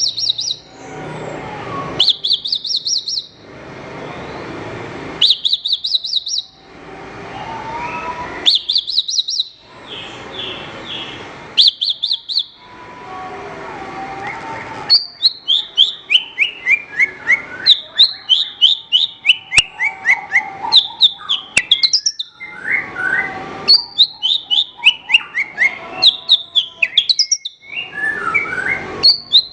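Javan bush lark (branjangan) singing. First come short high trills about every three seconds with softer, lower warbling between them; from about halfway it breaks into a fast, near-continuous run of quick notes that slide down in pitch, over and over.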